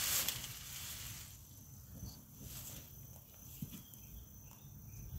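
Quiet outdoor garden ambience with a faint, steady, high insect whine. A short rustle comes right at the start, and a couple of soft knocks follow later.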